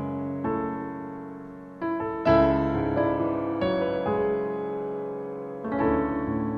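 Soft background piano music: single notes and chords struck about once a second, each ringing on and fading.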